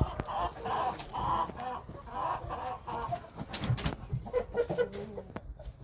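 Shamo hens clucking, a run of short repeated clucks about two or three a second, with a few sharp clicks or knocks partway through.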